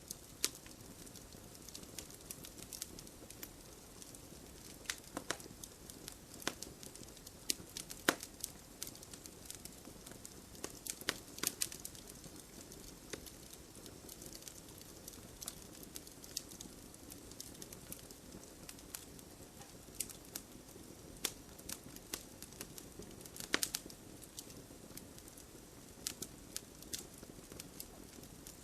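Wood campfire burning: a steady low rush with irregular sharp crackles and pops scattered throughout, a few of them louder snaps.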